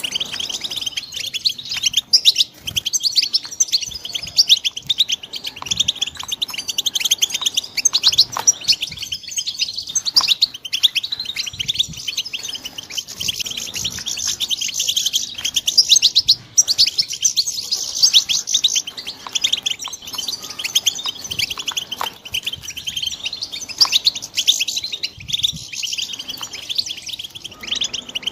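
Young European goldfinches singing: a continuous, rapid twittering of high chirps and trills.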